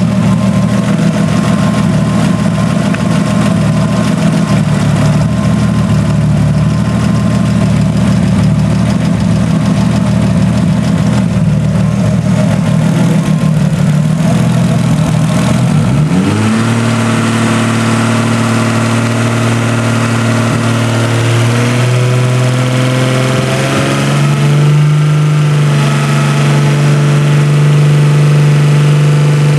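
Freshly rebuilt Nissan RB25DET turbocharged straight-six idling steadily, then about halfway through brought up to a higher speed and held there in small steps, dropping back near the end. The owner posted this running for a ticking noise heard after the rebuild.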